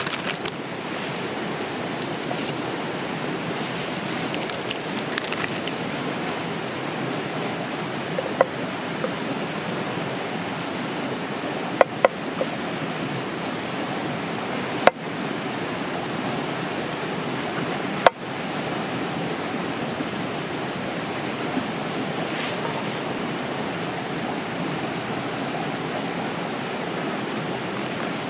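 Steady rushing of a river, with a few short sharp clicks over it.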